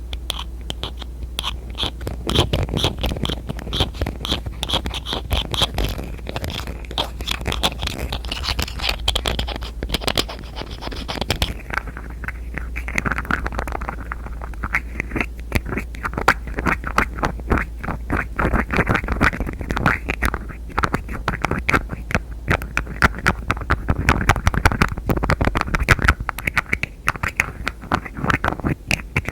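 Rapid fingernail tapping and scratching on containers and lids, a dense stream of quick taps mixed with scraping. About 12 s in the sound changes to a duller, lower-pitched object.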